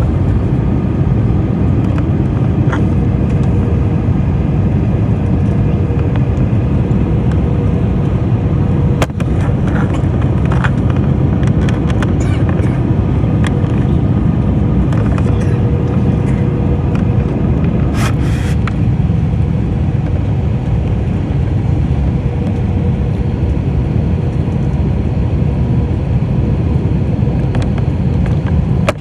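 Steady low roar of an airliner's engines and rushing air heard inside the cabin during descent, with a faint steady hum above it. A few light clicks and knocks come through, one about nine seconds in and another about eighteen seconds in.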